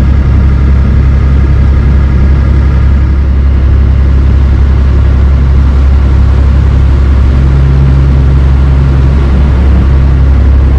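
The barge's inboard engine running under way, a loud, steady low drone with an even hum above it. About seven seconds in, one note in the drone swells for a couple of seconds.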